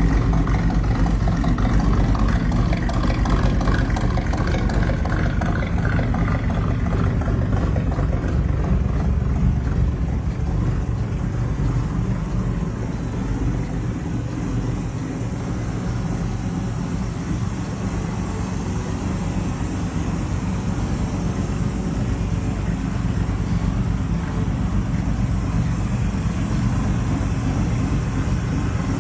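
1967 Chevrolet Malibu's 327 V8 engine running steadily, with a deep, even exhaust note.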